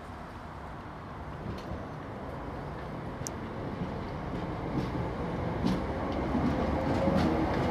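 British Rail Class 318 electric multiple unit approaching and running past, its rumble of wheels on rail growing steadily louder. A whine rises gently in pitch over the last few seconds.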